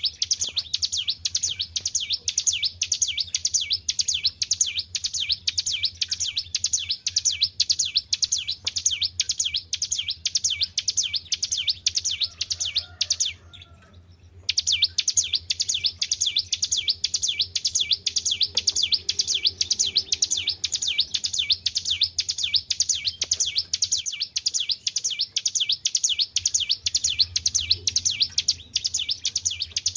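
Ciblek gunung, a prinia, singing a fast, unbroken run of high chirps, many per second, with one pause of about a second midway. A faint steady low hum runs underneath.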